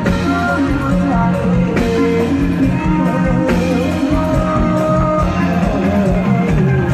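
Live band music from a stage show: electric guitar melody over a steady bass line and drum kit.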